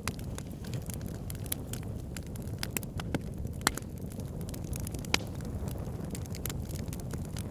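Wood fire burning in a fireplace: a steady low rumble of flames with frequent sharp crackles and pops, two of them louder, about midway and two-thirds through.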